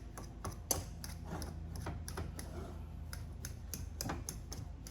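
A metal fork mashing boiled potatoes with butter in a pot: an irregular run of sharp clicks, about three or four a second, as the fork strikes the pot. A steady low hum runs underneath.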